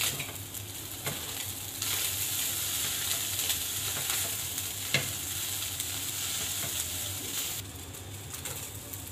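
Shredded chicken stuffing frying in oil in a karahi while being stirred with a spatula: a steady sizzle that grows louder about two seconds in and eases off near the end, with a single click of the spatula about halfway.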